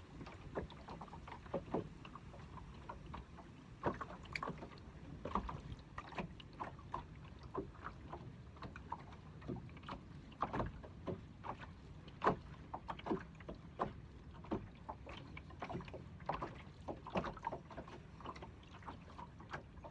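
A small fishing boat on the water: water sloshing against the hull, with many irregular knocks and clicks from the boat and gear.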